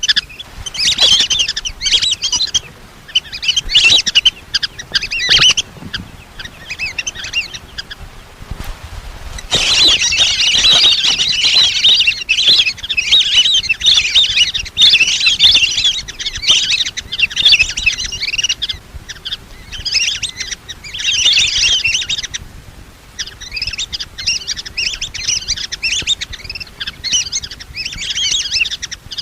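Lesser whistling ducks calling: many high, thin whistled chirps in rapid overlapping bursts. There is a short lull about eight seconds in, followed by denser calling.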